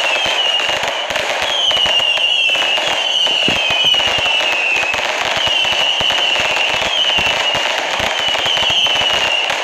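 Firework cakes firing continuously: a dense crackle of pops and bangs, with a shrill whistle falling a little in pitch over about a second, repeating again and again.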